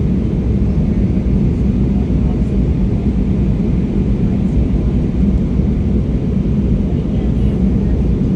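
Steady low drone inside the passenger cabin of an Embraer E175 regional jet in flight: its engines and the air rushing past.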